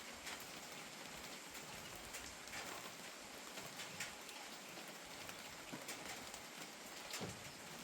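Steady light rain: an even hiss with scattered sharper single drops striking close by.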